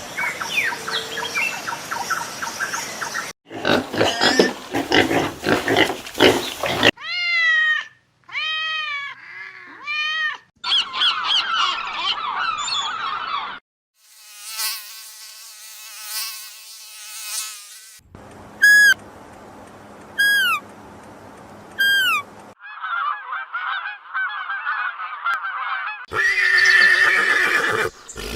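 A quick run of different animal calls and cries, each clip cut off abruptly as the next begins. Among them are three rising-then-falling pitched calls and, later, four short, high calls that drop in pitch.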